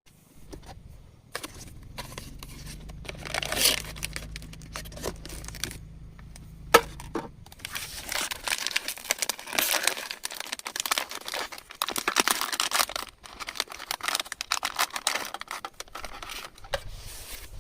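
Crinkling and rustling, like packaging or a bag being handled, with one sharp click about seven seconds in. A low steady hum runs beneath it for the first seven seconds.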